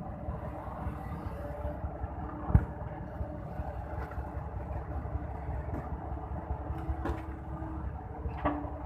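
Heavy diesel engine running steadily with a fast low pulsing rumble, and one sharp knock about two and a half seconds in.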